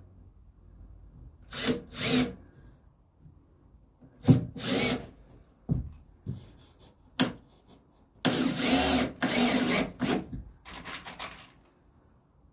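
Power drill driving 2.5-inch deck screws into pressure-treated lumber, in several separate runs: a short double burst about two seconds in, another near four and a half seconds, a few sharp clicks, then three longer runs of about a second each near the end.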